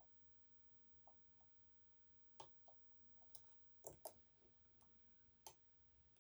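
Faint, scattered metallic clicks of a hook pick working the sliders of an EVVA 3KS lock under tension, a few irregular ticks with a close pair about four seconds in.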